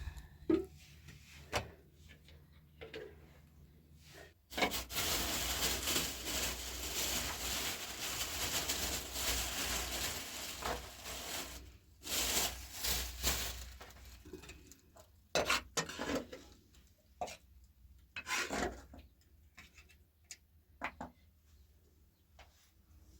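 Rubbing and scraping. A long continuous stretch of rasping is followed by shorter bursts and scattered single strokes.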